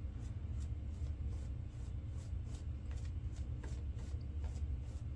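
Quick, short scratchy strokes over a lathered, stubbled face during a wet shave, about three a second, over a steady low hum.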